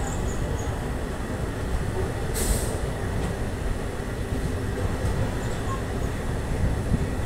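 Steady low rumble of trains running on the rails, heard at an open coach door or window while a train of blue passenger coaches passes close alongside on the next track. A brief high hiss about two and a half seconds in.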